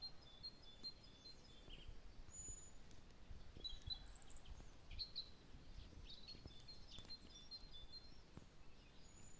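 Faint songbirds chirping, many short high calls scattered throughout, over a low steady rumble of outdoor background noise.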